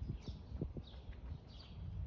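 A small bird repeating a short chirp that falls in pitch, about once every two-thirds of a second, over a steady low rumble.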